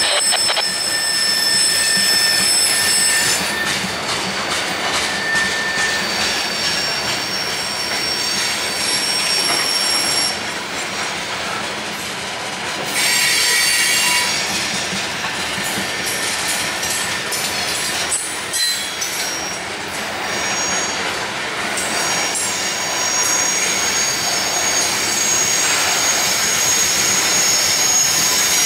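Tank cars of a freight train rolling past on steel wheels and rails, with high-pitched wheel squeal that comes and goes.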